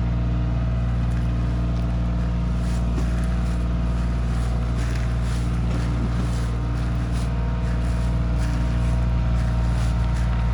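Kioti CK2610 compact tractor's diesel engine running steadily at constant speed.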